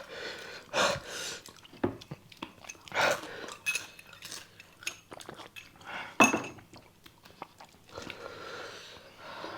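People eating noodles: irregular chewing with cutlery clicking and clinking against bowls. A few louder short sounds come about one, three and six seconds in.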